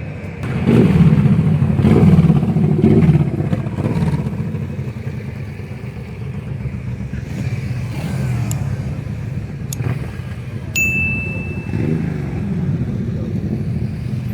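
Motorcycle engines running, with a louder stretch of revving in the first few seconds. A short, high, steady beep about three-quarters of the way through.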